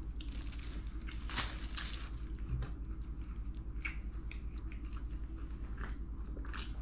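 Eating sounds: scattered small crunches and mouth clicks of chewing and biting, over a steady low hum.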